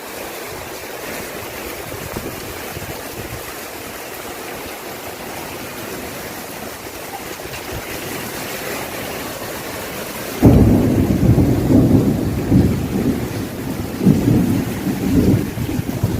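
Steady hiss of rain falling. About ten seconds in, a loud low rumble cuts in suddenly and rises and falls to the end.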